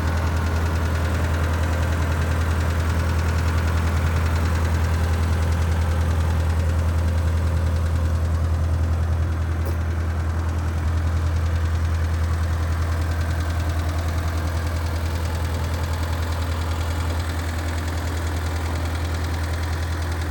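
Caterpillar 247B compact track loader's diesel engine idling steadily with a low, even hum.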